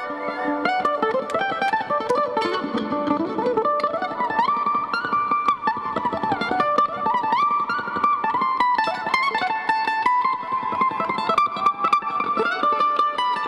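Mandolin played solo: quick picked runs of notes with sliding pitches, and no bass underneath.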